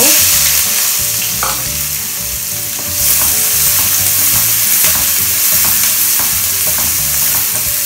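Chopped onion dropped into hot oil in a nonstick wok, setting off a loud sizzle all at once. The onion keeps frying while a wooden spatula stirs it, tapping and scraping against the pan; the sizzle grows louder again about three seconds in.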